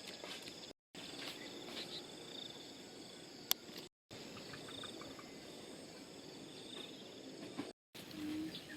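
Faint rural ambience of insects chirring in steady trills, with a single sharp click about midway. The sound drops out completely three times for a split second.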